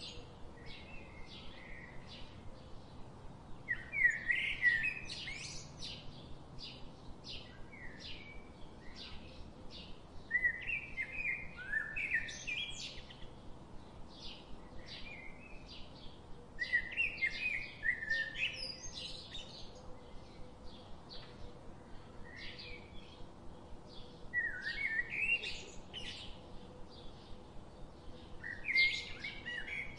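Birds singing: a short warbling phrase of gliding notes repeats every five to seven seconds, with short chirps about twice a second in between.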